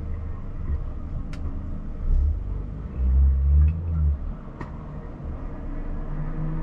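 Car engine running with a low rumble, rising in two louder surges about two and three seconds in, with a couple of faint clicks.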